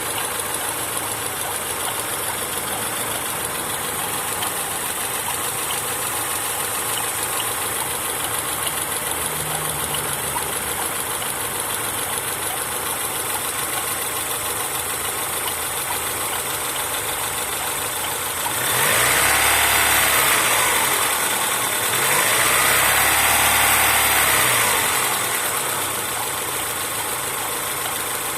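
Car engine idling, revved up and back down twice past the middle, each rev lasting a couple of seconds. It carries an extraneous noise that appeared after the timing belt was replaced.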